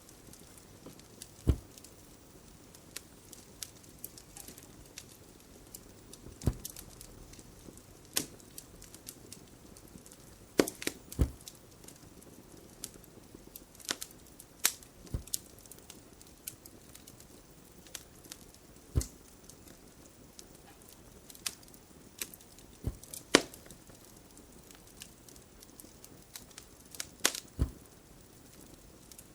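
Wood fire crackling: irregular sharp pops and snaps, some much louder than others, over a faint steady hiss.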